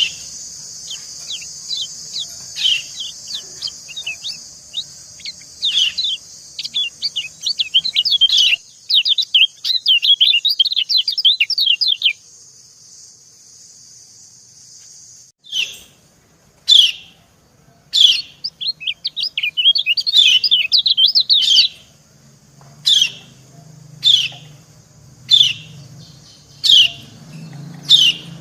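Yellow white-eyes (kecial kuning) calling: dense runs of rapid twittering about 6 to 12 s in and again around 18 to 21 s, and single sharp, falling 'ciak' chirps spaced about a second and a half apart through the second half. A steady high hiss under the first half stops suddenly about halfway.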